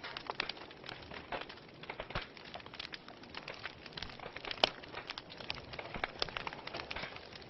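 Wood fire burning in a fireplace, crackling and popping irregularly over a soft steady hiss, with one sharper pop about halfway through.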